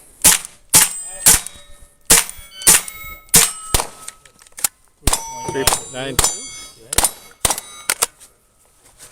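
A timed string of .22 rimfire shots, roughly one every half second, with steel targets ringing briefly after many of the hits.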